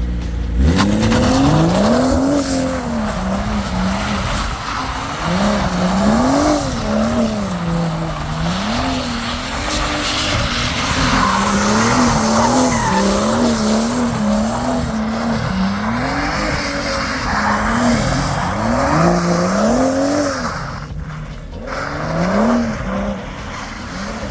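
BMW 340i's turbocharged 3.0-litre inline-six revving hard up and down again and again, as the car is driven sideways with its tires spinning and sliding, a hiss of tire noise over the engine. The revs dip briefly about three-quarters of the way through, then climb again.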